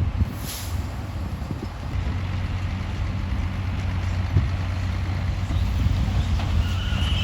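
Bulldozer's diesel engine running steadily, with a few irregular knocks and clanks. A short high chirp comes near the end.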